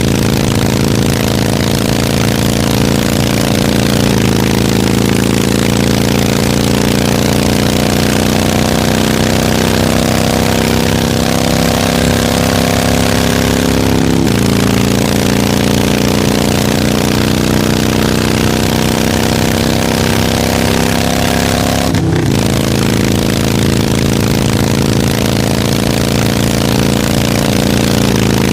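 Harley-Davidson motorcycle's V-twin engine running continuously. Its pitch climbs slowly, then drops suddenly about halfway through, with another sudden change about four seconds in and again near the end.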